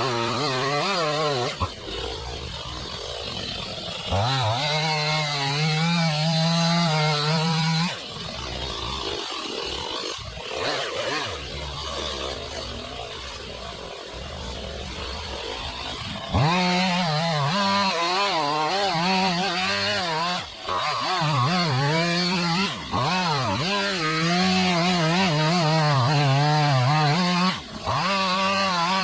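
Chainsaw running at full throttle, cutting. It eases off to a lower speed for several seconds in the middle, then revs back up and dips briefly a few times near the end.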